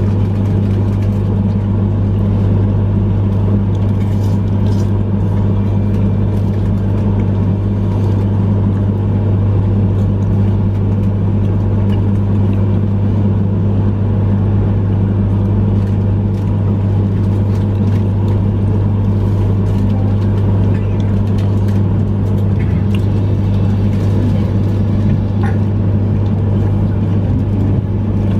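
Steady low hum inside a Yamagata Shinkansen train car standing at a station, its onboard equipment running while the train waits.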